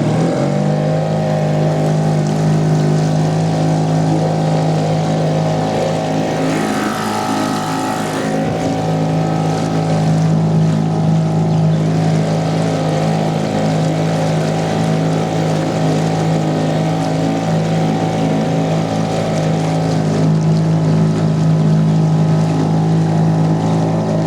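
Fisher 2.5 hp outboard motor running steadily at a constant throttle, pushing a small boat along. A brief hissing rush about seven seconds in.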